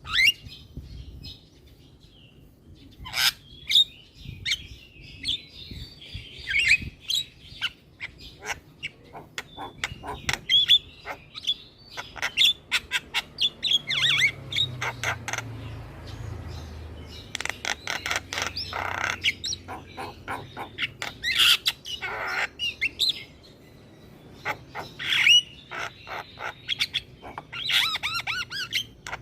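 Javan myna (jalak kebo) singing in bouts of harsh squawks, rapid clicks and short whistles, with brief pauses between the bouts.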